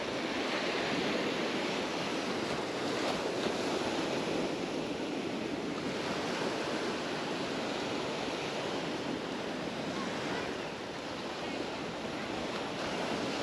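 Mediterranean surf: small waves breaking and washing up the sand in a steady, even rush that swells and eases slightly.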